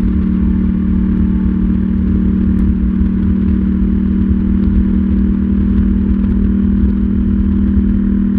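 KTM 790 Duke's parallel-twin engine running at a steady engine speed, with no revving up or down.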